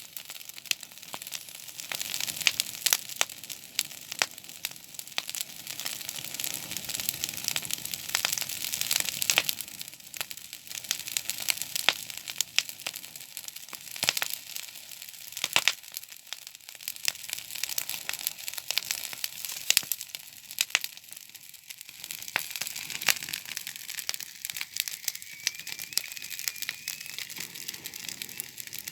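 A paper fire crackling and hissing, with a steady stream of sharp snaps and pops.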